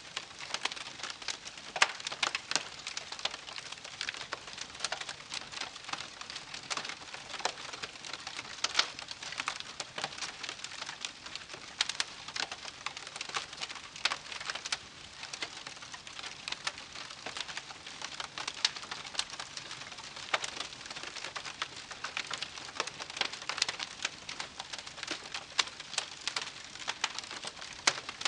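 Wood fire crackling and popping steadily, with dense irregular snaps over a soft hiss of burning.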